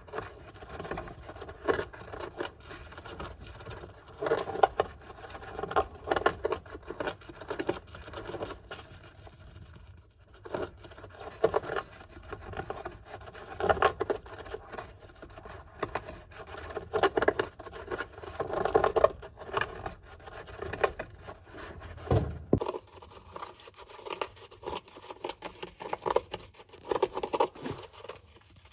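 A golden hamster digging and scratching in its sand bath: irregular bursts of scratching and rustling sand, with one sharp thump about three-quarters of the way through.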